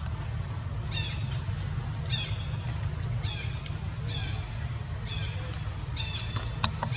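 A bird calling repeatedly: short, high, falling chirps about once a second, over a steady low rumble.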